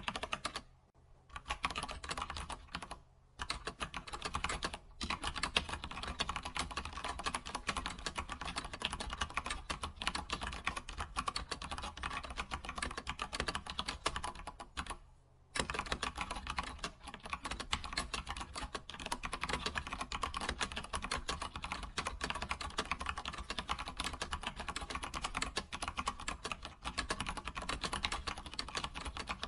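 Computer keyboard typing, a fast, steady run of key clicks with a few short pauses, the longest about halfway through.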